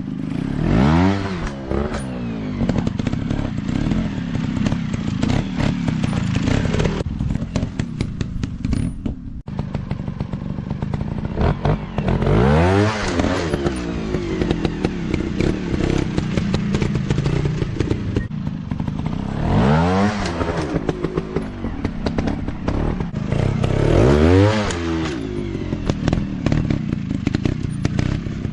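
Dirt bike engines revving hard in repeated bursts: the pitch climbs and falls about four times over a steady low running sound, with clattering and knocking throughout.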